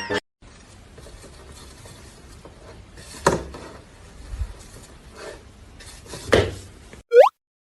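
Low rustling with two sharp clattering knocks, one about three seconds in and one about six seconds in, then a short rising whistle near the end.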